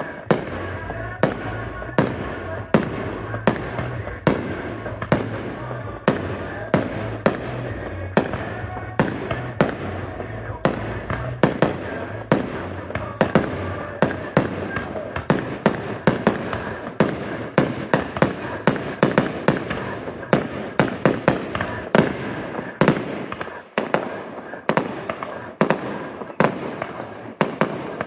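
Fireworks going off in a rapid, irregular barrage of sharp bangs, two or three a second, with music and voices going on underneath.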